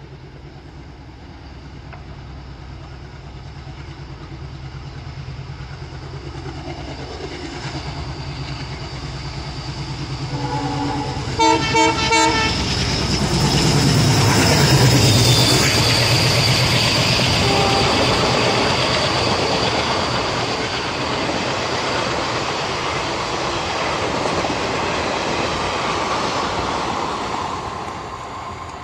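Diesel locomotive hauling a passenger train approaches with a chugging engine and gives three short horn blasts about eleven seconds in. It then passes at its loudest, and the clickety-clack of the coaches rattles on before fading near the end.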